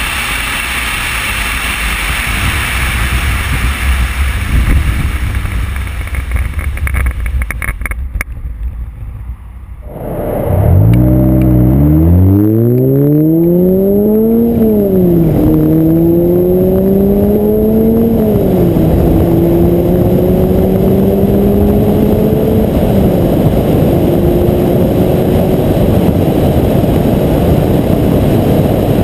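Car accelerating onto a freeway, heard through a windshield-mounted GoPro Hero2 housing. First comes a loud wind rush that fades away. After an abrupt change about ten seconds in, the engine climbs in pitch and drops back at three upshifts a few seconds apart, while wind noise builds to a steady rush.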